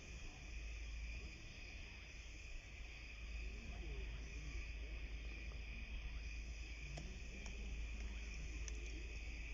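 Steady outdoor insect chorus: a constant high shrill drone of late-summer crickets or similar insects, over a low rumble.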